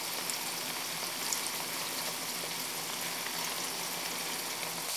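Tofu cubes sizzling as they fry in oil in a wok: a steady hiss with a few light crackles.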